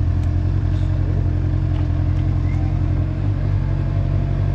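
Honda motorcycle engine running steadily, with a slight change in its beat about three seconds in.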